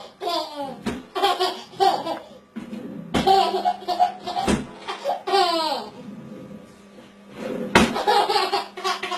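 Laughter in three bouts, with quieter gaps about two and a half seconds in and again near seven seconds.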